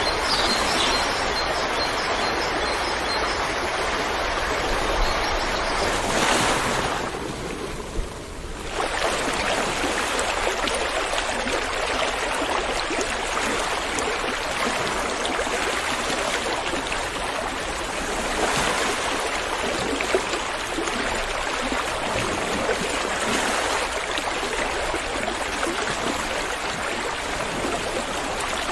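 River water rushing and flowing steadily, an even wash of water noise. It briefly thins out about seven seconds in, then returns.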